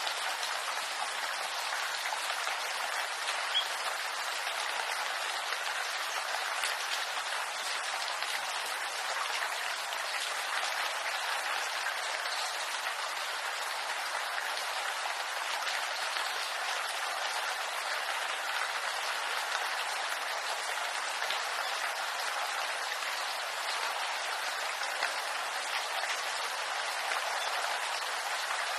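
Steady rain falling on bamboo leaves: an even hiss of many drops with a few sharper single drop hits.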